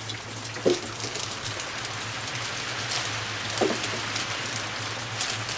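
Steady rain coming down hard, hissing evenly, with two short low sounds, one about a second in and one past the middle.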